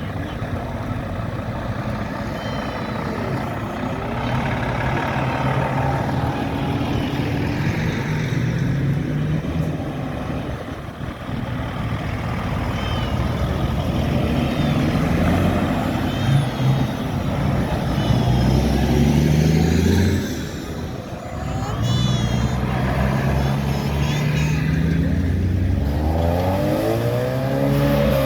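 Tractor and vehicle engines running as they drive past one after another, their pitch rising as they pull away. Near the end one passes close, its engine note rising and then falling.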